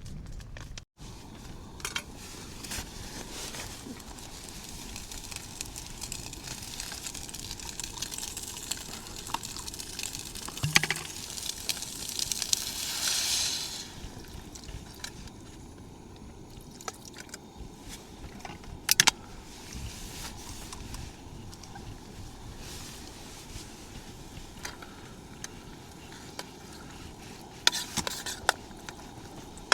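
Camping meal being prepared: clicks and clinks of cooking gear over a steady hiss, with a couple of seconds of rushing, pour-like noise near the middle and a few sharp knocks later.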